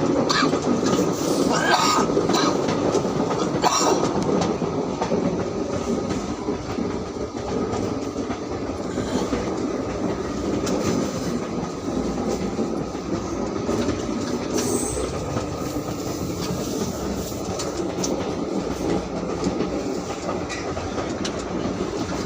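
Passenger train running along the track with a continuous rumble from the wheels and carriages, and a few sharp clicks in the first four seconds.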